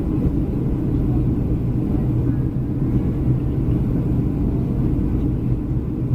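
Steady low rumble of engine and airflow noise inside the passenger cabin of a Boeing 737-300 on final approach, with a constant low hum under it.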